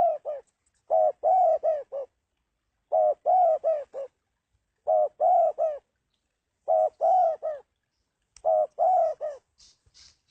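Spotted dove cooing: a phrase of about four notes, repeated five times about every two seconds.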